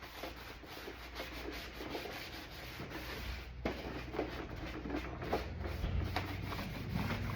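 A rag scrubbing a plastic door panel with acetone, in uneven back-and-forth rubbing strokes, to strip off the dirt.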